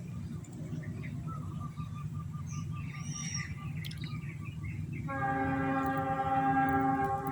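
Low steady rumble with short, high bird chirps in the first half. About five seconds in, a horn sounds one long steady note that lasts to the end.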